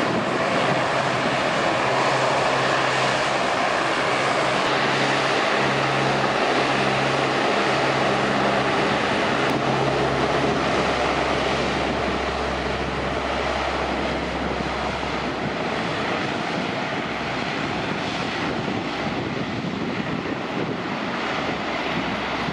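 Lockheed C-130H's four Allison T56 turboprop engines running, a loud steady drone with humming propeller tones that ease off slightly in the second half.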